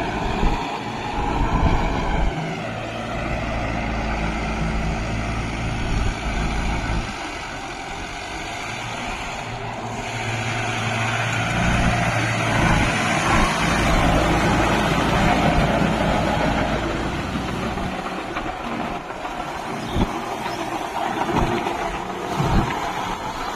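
Kubota MU5502 4WD tractor's four-cylinder diesel engine running under load, its pitch rising and falling several times as it works.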